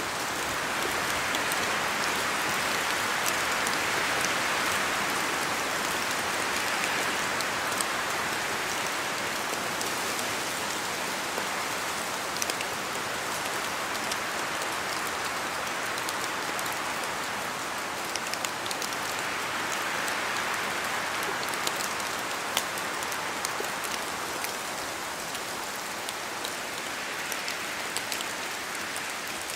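Steady rain falling in a spruce forest, with many individual drops ticking sharply on top of the even hiss. The hiss swells gently twice, a few seconds in and again about two-thirds through.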